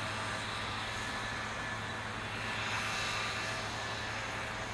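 Steady outdoor city background noise: an even rush that swells slightly around the middle, with a faint low hum under it.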